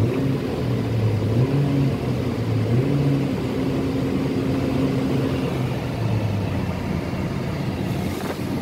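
The 2012 Jeep Compass's four-cylinder engine idles steadily with a low hum that shifts slightly in pitch now and then. The engine has been overheating and is running after a coolant top-up.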